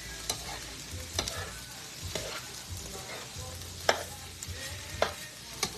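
Shrimp and cauliflower fried rice sizzling in a pan on high heat while it is stirred, with a handful of sharp clicks of the utensil against the pan.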